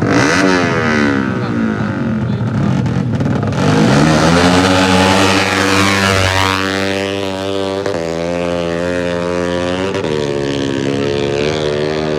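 Racing motorcycle engines at high revs, the pitch sweeping down as one passes in the first seconds, then a steady engine note with brief rises in revs.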